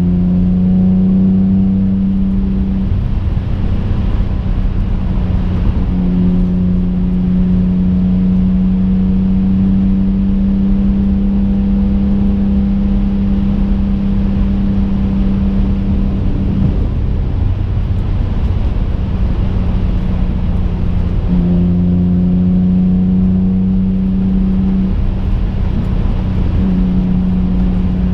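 Twin-turbo V6 engine of a 2005 Infiniti G35 coupe cruising, heard from inside the cabin as a steady engine drone over road rumble. The pitch holds level for long stretches, with a few small step changes as the throttle varies.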